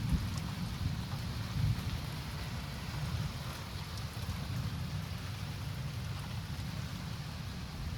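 Steady rain falling, with the low rumble of thunder rolling on from a lightning strike and easing off after the first couple of seconds.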